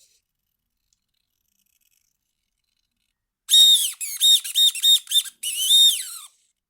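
Savöx SC-1256TG digital servo whining high as its motor drives back and forth. There is one stroke about halfway in, then a quick run of about five short strokes, then a longer one. The pitch swoops up and down as the motor starts and stops each time.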